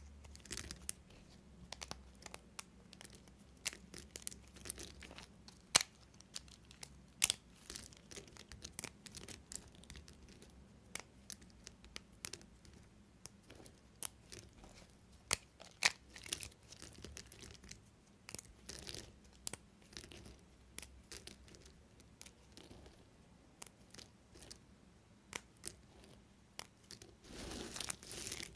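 Knife cutting through bars of soap: irregular crisp crackles and sharp snaps, growing denser and louder near the end.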